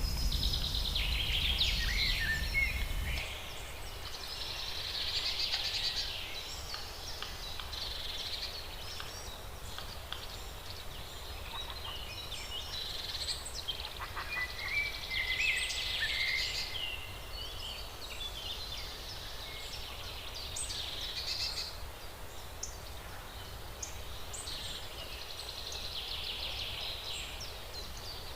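Wild birds calling: repeated high chirping phrases, some with a rapid rattle, coming every few seconds over faint outdoor background noise. A low rumble sounds for the first three seconds and stops abruptly.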